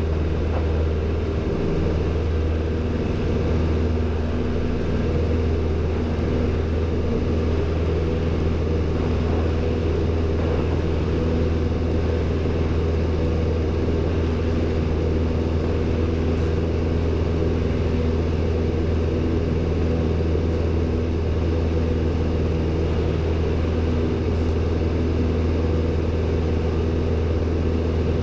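Robin DR400-120's four-cylinder Lycoming engine running steadily at full power in the climb just after takeoff rotation: an even, unbroken drone.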